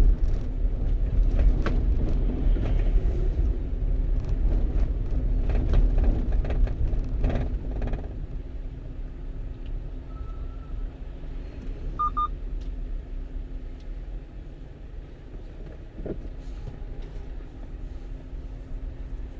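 Road and engine rumble inside the cab of a one-ton truck on the move. It is heavier for the first eight seconds or so, then eases off, with a few brief knocks in the first half. Two short, high beeps come a little after the middle.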